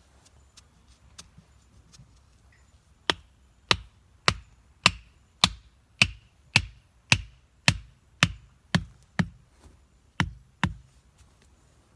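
Wood being chopped with a blade: a steady run of sharp strikes, about two a second, starting about three seconds in and stopping shortly before the end, with only faint taps before it.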